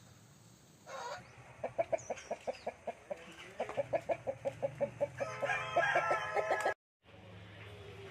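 Game-breed chickens clucking in a quick run of about five clucks a second, then a louder, higher drawn-out call. The sound breaks off suddenly near the end.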